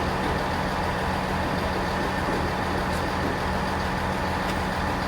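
Steady low drone of trains at a station platform: a constant engine hum under an even rumble, with no change in pitch or level.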